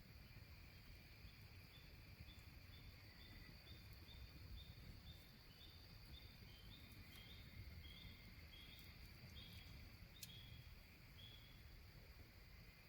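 Faint insect chorus: a steady high trill with a cricket chirping over it, about two to three chirps a second, starting about a second in and stopping near the end.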